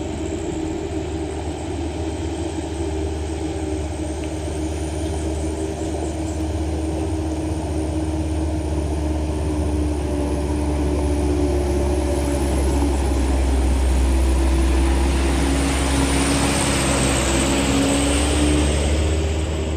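Heavy diesel truck engine running under load on a steep gravel climb, growing louder about halfway through.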